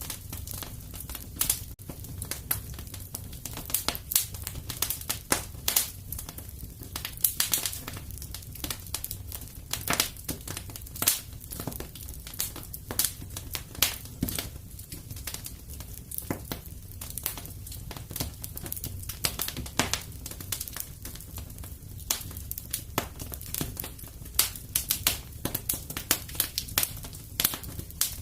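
Wood fire crackling and popping steadily over a low rumble of flames, with irregular sharp snaps several times a second.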